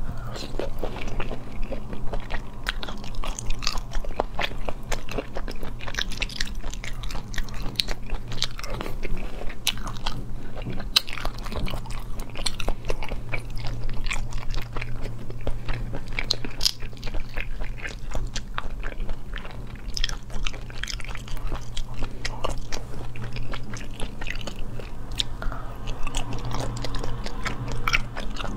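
Close-miked chewing and biting of soft snail meat: a steady stream of small mouth clicks, over a constant low hum.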